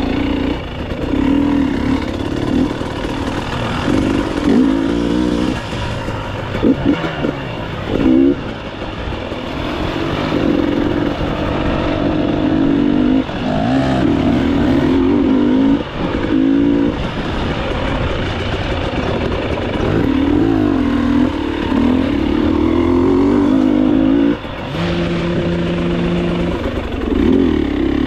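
Enduro motorcycle engine ridden off-road, its revs rising and falling again and again, with a short steadier stretch about three-quarters of the way through.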